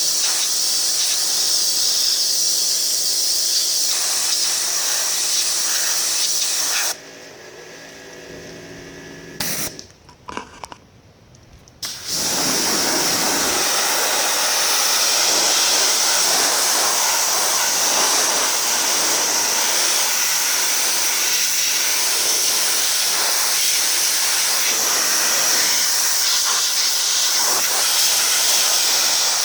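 A 2200 psi electric pressure washer spraying water with a loud, steady hiss. The spray cuts off sharply about seven seconds in, stays off for about five seconds, then starts again and runs steadily.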